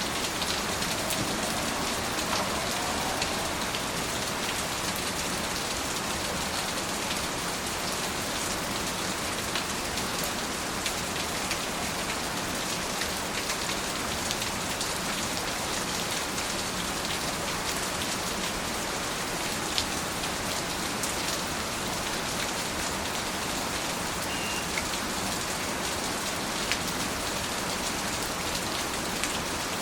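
Steady rain, a dense even hiss with occasional sharper ticks of single drops hitting a surface.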